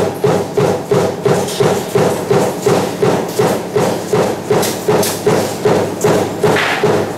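Power punch press running a die for table fan motor parts, stamping continuously with evenly spaced metallic thumps at nearly three strokes a second.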